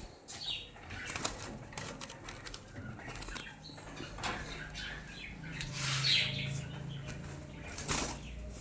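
Doves' wings flapping and fluttering, with scattered rustles and knocks, as the birds move about in their cage or loft. A couple of brief high chirps come at about half a second and around six seconds in.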